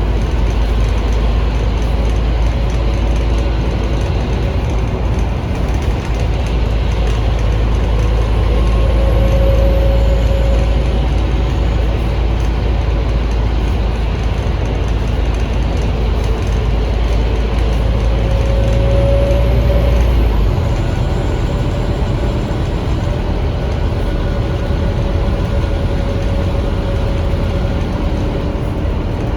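Scania K310UA articulated bus under way, heard on board: the Scania DC9 diesel and ZF Ecomat automatic running with a deep, steady rumble. A whine rises and falls twice, about ten seconds in and again near twenty seconds, and the deep rumble eases after the second.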